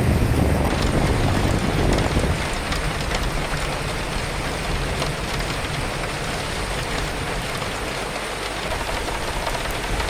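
Steady rain with gusting wind. A strong deep gust in the first couple of seconds eases off, leaving mostly the hiss and patter of the rain.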